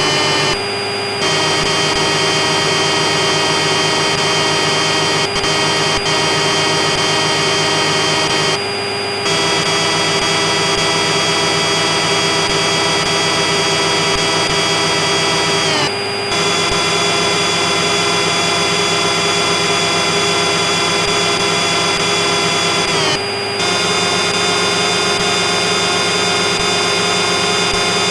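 CNC machine running: a loud, steady mechanical whine of several tones over a noisy hiss. It dips briefly about every seven seconds, and some of the tones slide down and settle at a new pitch.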